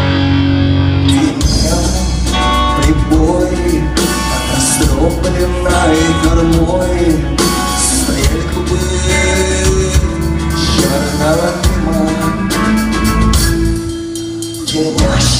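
Rock band playing an instrumental passage of a song, led by guitar over a bass line and drum beat.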